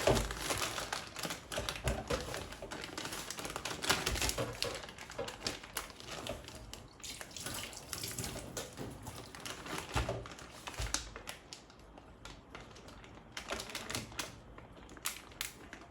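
Rapid, irregular clicking and clattering of hands handling kitchen items, with no speech.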